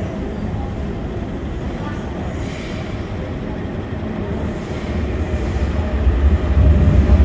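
MTR Tung Chung line CAF electric train running on the rails, a steady rumble that grows louder and heavier over the last two seconds.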